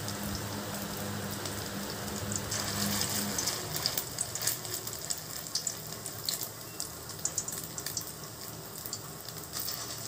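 Ground prawn fritters sizzling in hot refined oil in a steel kadai, with small crackling pops as more spoonfuls of paste go in. A low hum runs under it and stops about three seconds in.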